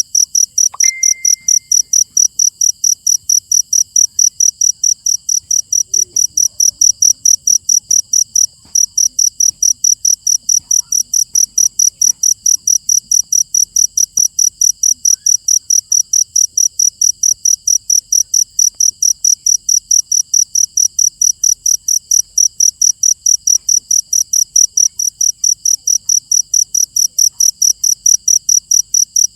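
Cricket chirping loudly and steadily, about three high chirps a second, with a brief break about nine seconds in. A short steady tone sounds about a second in.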